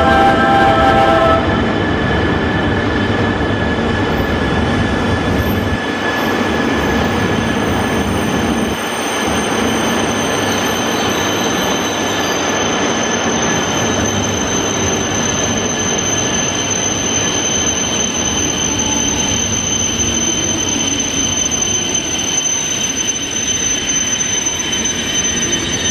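An E3 series 0 Shinkansen coupled to an E5 series runs slowly in along the platform: a steady, loud rumble of the cars with high-pitched wheel squeal.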